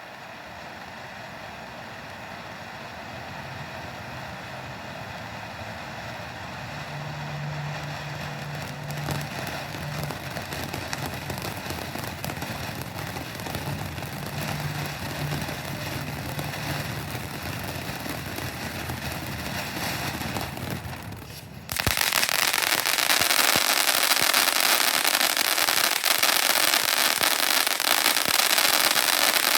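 Magic Castle consumer firework fountain burning: a steady spraying hiss that slowly grows louder, then, about 22 seconds in, a sudden switch to loud, dense crackling as the fountain reaches its crackling effect.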